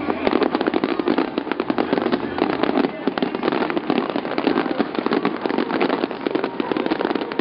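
Fireworks display going off as a dense, unbroken crackle of many small bangs and pops each second, steady in loudness.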